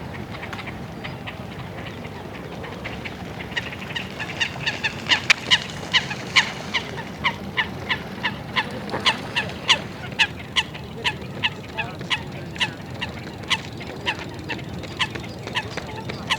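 Geese honking, a long series of short, sharp honks at about two a second that begins a few seconds in and runs on, over a steady low hum of park ambience.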